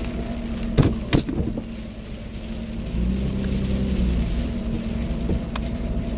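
Car engine running, heard from inside the cabin, with two sharp taps about a second in. From about three seconds in, the engine note grows louder.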